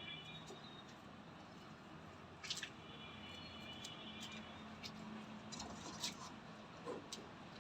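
Rain dripping, with a few sharp drip taps and faint high chirps at the start and about three seconds in.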